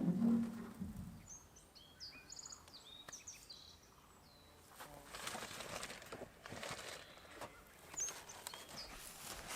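Wild forest birds calling: a low coo right at the start, then a quick run of short high chirps about two seconds in. In the second half, irregular rustling noises take over.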